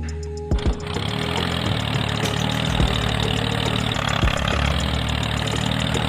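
A small engine, likely the homemade mini tractor cultivator's, starts running about a second in after a couple of thumps, then runs steadily with a fast, even beat.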